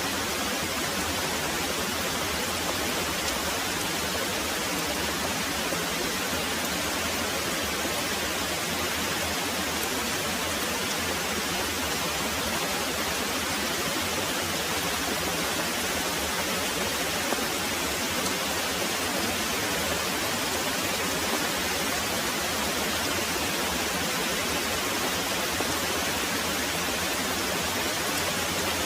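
Very heavy rain pouring steadily, an even, dense hiss that stays the same throughout.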